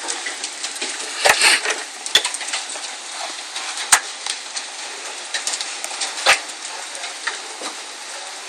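A hailstorm: a steady hiss of hail and rain, broken by sharp cracks of large hailstones striking hard surfaces. The loudest strikes come just over a second in, near four seconds and a little after six seconds.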